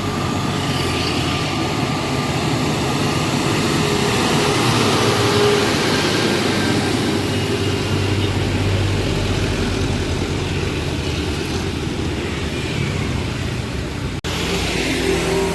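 Heavy loaded truck's diesel engine pulling up a steep grade: a steady, loud low drone mixed with road noise. The sound cuts out for an instant near the end.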